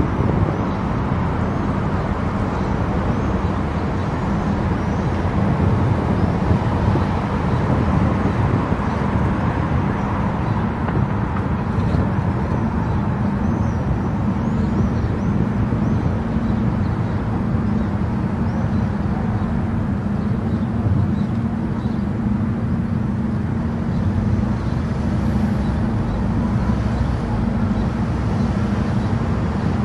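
Car driving at highway speed: a steady low rumble of tyres and engine.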